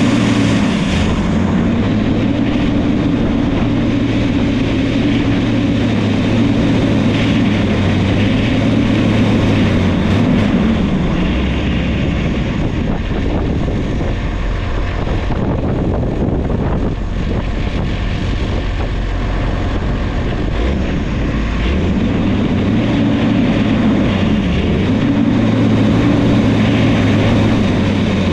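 New Holland crawler dozer's diesel engine running steadily while working. Its note sags lower for several seconds in the middle, then picks back up.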